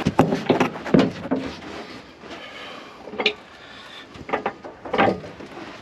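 Scattered metal clanks and knocks as a combine gearbox, hung from a crane on a strap, is worked loose and shifted against the machine's frame; the knocks come thickest in the first second, with single ones about three seconds in and around four to five seconds in.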